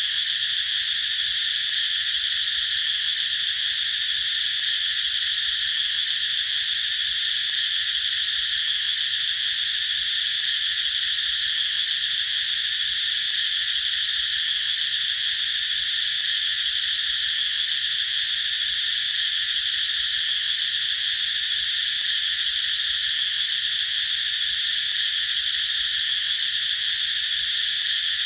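Cicadas singing together in one continuous, steady, high-pitched buzz, unbroken and unchanging in level.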